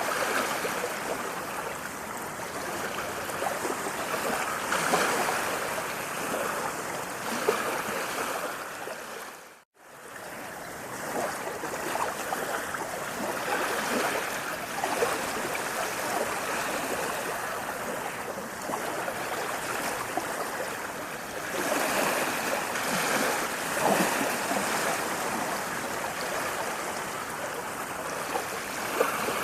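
Running water of a stream, a steady rush with small splashy flecks, cutting out for a split second about ten seconds in.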